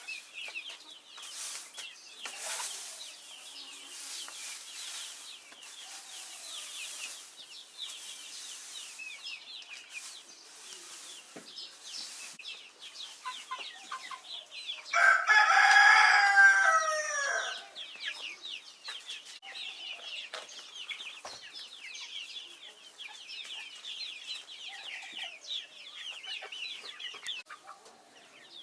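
Young chicks peeping almost without a break in high, quick chirps, with a rooster crowing loudly once about halfway through. There is some rustling in the first few seconds.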